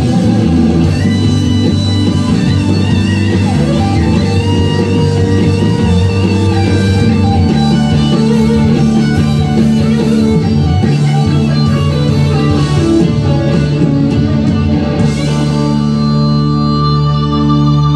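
Rock band playing an instrumental passage, led by guitar over bass, ending on a held chord.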